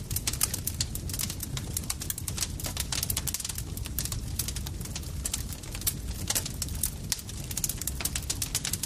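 Campfire crackling: a dense, irregular run of sharp pops and snaps over a low, steady rumble of burning wood.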